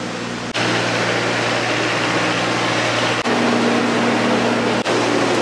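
Steady mechanical hum of an idling passenger train, engine and car air-conditioning units running, with a constant hiss over a few low steady tones. It gets louder about half a second in.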